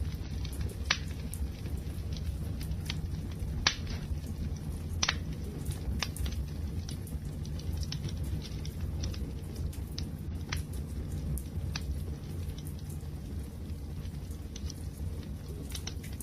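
Wood fire crackling: scattered sharp pops and snaps over a steady low rumble of burning, with two louder pops a few seconds in.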